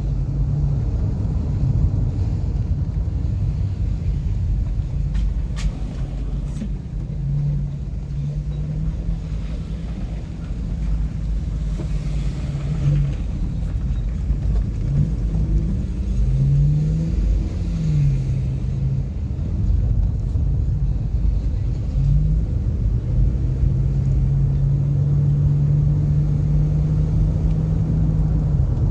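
Car driving, with constant low road rumble and an engine hum that rises and falls in pitch as speed changes, then holds steady over the last few seconds.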